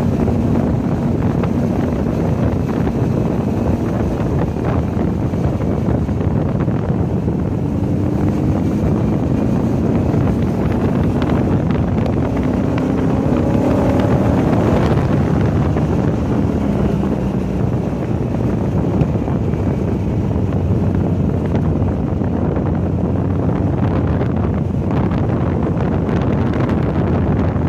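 A Volkswagen car's engine running hard on track, its pitch rising for a stretch about halfway through and then falling away, under heavy wind noise on the microphone.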